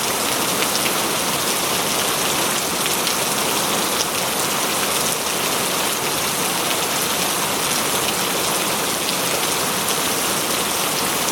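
Steady rainfall with many small drops pattering on leaves and ground, even and unbroken.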